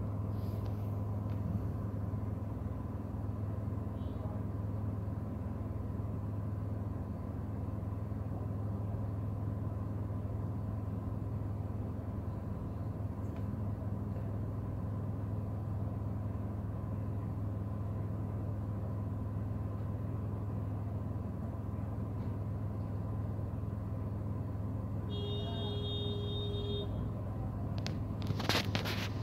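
Steady low hum of an idling car engine, heard from inside the cabin. About twenty-five seconds in, a steady tone sounds for about two seconds, and near the end there is a brief loud noise.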